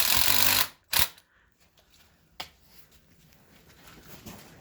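A loud power tool running, cutting off abruptly less than a second in, then two sharp knocks about a second and a half apart.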